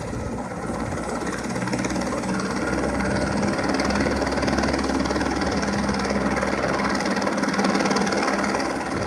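Medical helicopter running on its pad, turbine and rotor noise steady and slowly building over the first few seconds.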